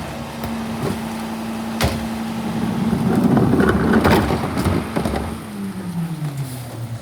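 Garbage truck engine running at a raised, steady speed, then winding down to idle about five and a half seconds in. A single sharp knock sounds near two seconds in.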